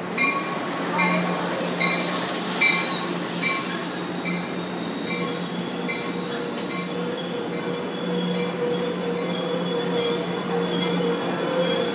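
Amtrak Pacific Surfliner passenger train pulling into the station. A bell rings about twice a second for the first few seconds. Then a steady high-pitched squeal from the wheels and brakes sets in as the train slows alongside the platform, over a low hum and rolling noise.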